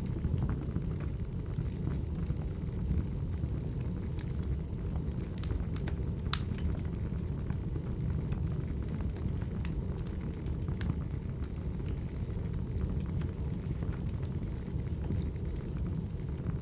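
Firewood burning: a steady low rush of flame with scattered crackles and pops, the sharpest pop about six seconds in.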